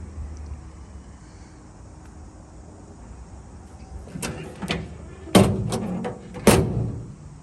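2006 Ford Ranger pickup's door being worked: a few light clicks of the latch, then two loud clunks about a second apart.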